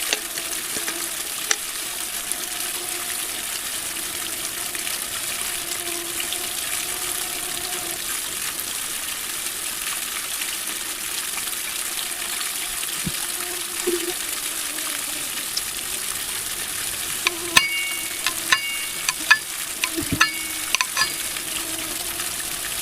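Newly lit campfire of birch bark, dry moss and twigs catching and crackling with a steady hiss. A run of sharper snaps and pops comes in the last few seconds.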